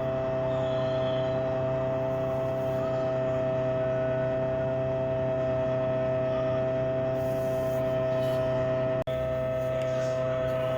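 Steady electrical hum with a prominent high tone over a lower buzz, unchanging throughout, from the egg incubator and candling equipment; a brief click-like break about nine seconds in.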